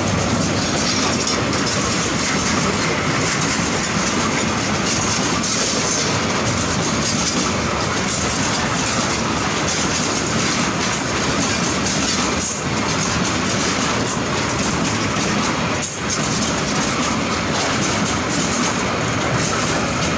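Bangladesh Railway freight train running on the track: a steady, loud rolling noise of its wagons' wheels on the rails.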